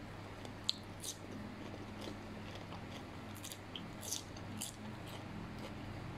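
Raw cucumber slice being bitten and chewed close to the microphone: a scatter of short, crisp crunches, the clearest about a second in and around three and a half to four and a half seconds in, over a faint steady low hum.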